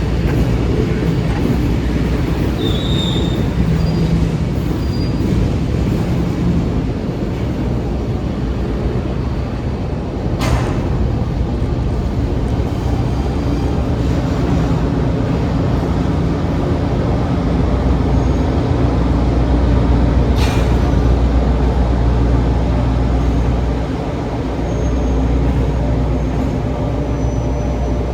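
Diesel locomotive, a GP9U with an EMD 567 V16 engine, running with its train: a steady low engine drone, with two sharp knocks about ten seconds apart.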